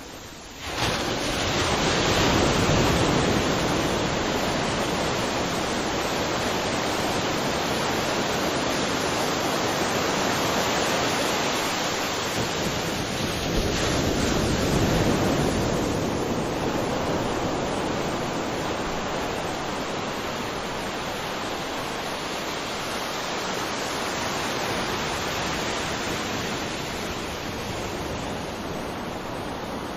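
Waterfall: a steady rush of falling, splashing water that fades in over the first second and then holds, swelling slightly now and then.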